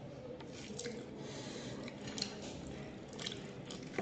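Close-up eating sounds: wet, squishy chewing of rice and chicken curry, with a few short sharp clicks.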